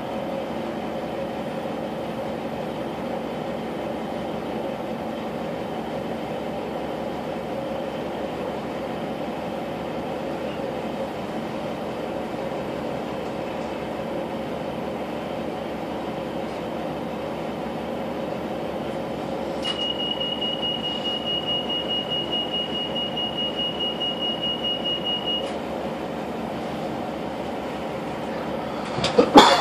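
Class 156 Sprinter diesel multiple unit standing still with its Cummins diesel engine idling, a steady hum. About twenty seconds in, a high-pitched pulsing beep sounds for about six seconds, typical of the door-closing warning. Near the end there is a brief loud clatter.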